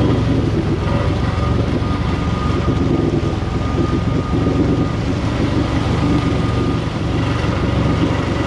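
Kawasaki X2 jet ski's 650 two-stroke engine running at a steady speed under way, with wind buffeting the microphone.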